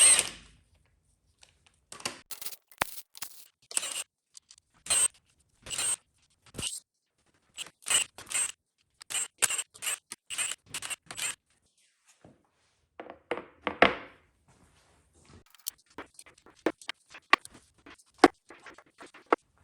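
Socket ratchet clicking in short bursts as the rocker arm fasteners of an LT1 small-block V8 are loosened, with sharper metal clinks and a clatter of parts being handled.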